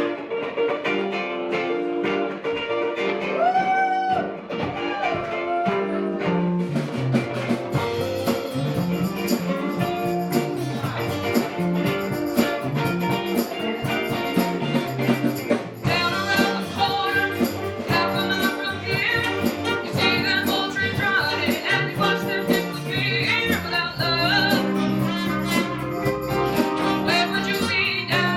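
Live rock band playing an upbeat groove, with electric guitar over bass and drums. The band fills out about seven seconds in, and bending melodic lines rise over the groove.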